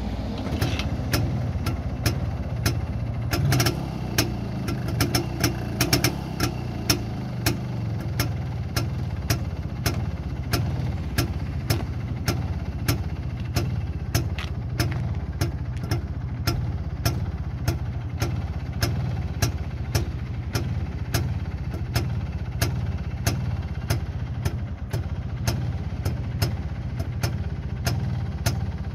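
1977 IZh Planeta 3 motorcycle's single-cylinder two-stroke engine idling steadily just after being started, with a sharp, even tick about every two-thirds of a second, ticking 'like a clock'. The tidy, regular idle is that of a freshly rebuilt engine in good tune.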